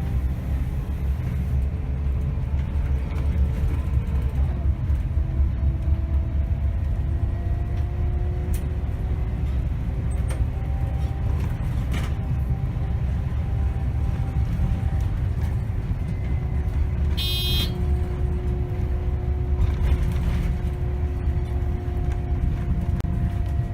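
Scania K270 city bus on the move, heard from the driver's seat: steady heavy engine and road rumble with a faint drivetrain whine that shifts in pitch. A few light knocks and rattles, and a short high-pitched beep about 17 seconds in.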